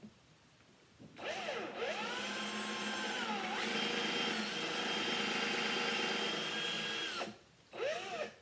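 Handheld electric drill running under trigger control. It spins up with a rising whine, dips briefly in speed partway through, then holds steady for a few seconds before stopping. One short burst of spin-up and spin-down follows near the end.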